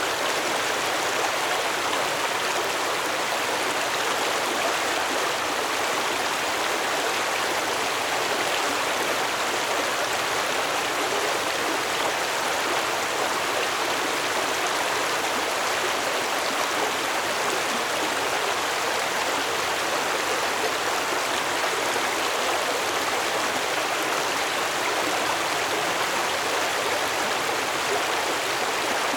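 Stream water flowing steadily over rocks, an even rushing with no breaks.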